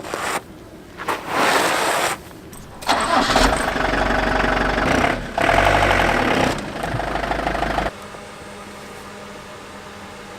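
Motorhome engine starting and running for a few seconds, then cutting off suddenly about eight seconds in, leaving a faint steady hum.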